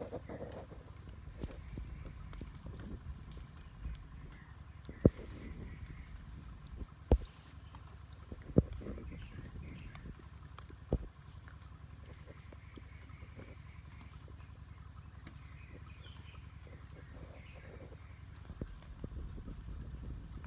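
Steady high-pitched insect chorus, with four or five sharp knocks scattered through it and faint bird chirps.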